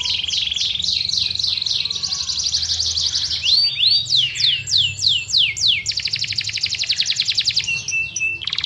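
Yorkshire canary singing a long, unbroken song of rapid trills. In the middle is a run of notes that each sweep down in pitch, followed by a fast buzzing trill.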